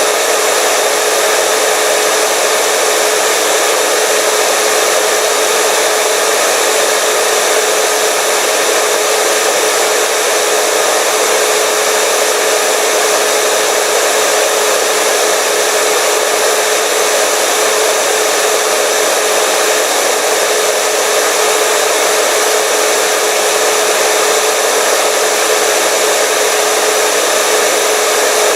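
Hair dryer running steadily: an even blowing rush with a constant motor whine.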